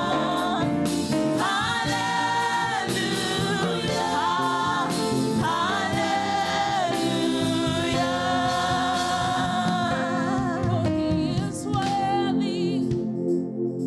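Church choir singing a gospel praise song with instrumental backing, holding long notes; the singing thins out near the end.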